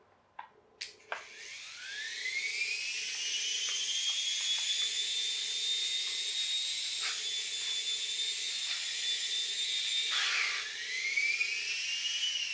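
Small electric motor of an Air Hogs Moto Frenzy RC motorbike spinning up its flywheel: a few clicks, then a high whine that rises in pitch and levels off, drops sharply about ten seconds in and climbs again.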